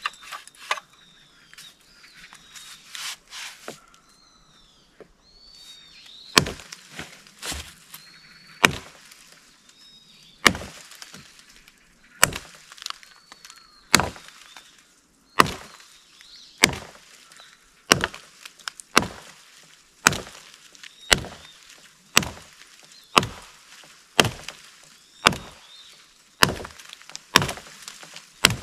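Japanese nata (a heavy, hatchet-like chopping blade) chopping into wood. After a few light knocks, sharp strikes follow at a steady pace, about one every second or so, from roughly six seconds in.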